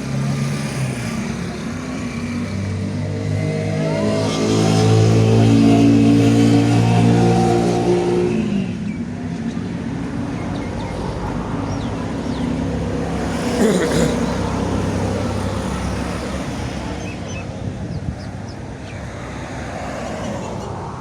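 Ford 4600 tractor engine running. It is revved up for a few seconds about a fifth of the way in, then drops back to a steady idle. A brief sharp noise comes about two-thirds of the way through.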